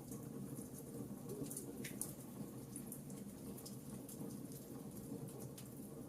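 Fire in a fireplace crackling: a steady low rumble of burning with frequent small sharp pops, one louder pop about two seconds in.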